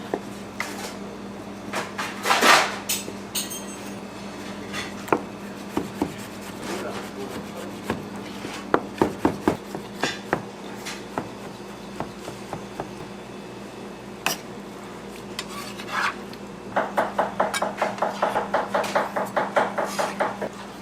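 Dishes and utensils clattering with scattered sharp knocks over a steady low hum, then a quick run of about eight knocks a second near the end.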